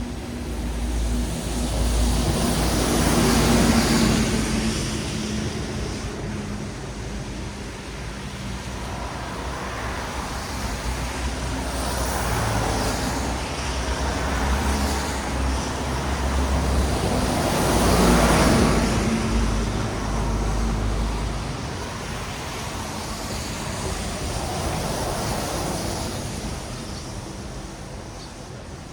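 Traffic passing on a wet city road: tyres hissing on wet asphalt over a low engine rumble, swelling and fading as vehicles go by, with the loudest pass-bys a few seconds in and just past the middle.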